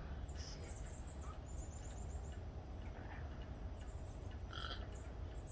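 Small wild birds chirping faintly, a scatter of short, high-pitched chirps, one a little lower and louder about four and a half seconds in, over a low steady rumble of wind or handling noise on the microphone.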